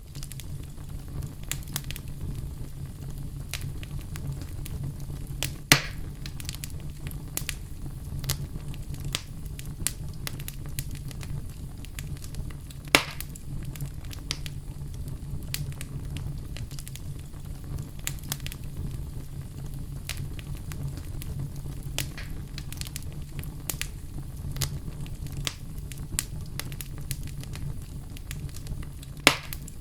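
Wood fire in a fireplace crackling over a steady low rumble, with a constant scatter of small crackles and three louder pops: one about six seconds in, one about thirteen seconds in, and one near the end.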